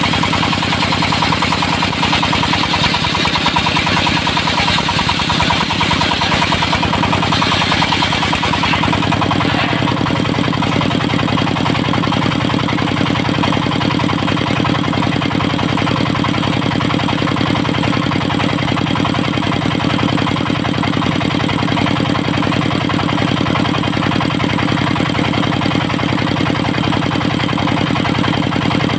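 Dongfeng diesel engine driving a circular sawmill, running steadily with an even beat. For the first nine seconds or so a higher, hissing noise rides over it, which fits the saw disc cutting into the teak log. It then stops, leaving the engine running on its own.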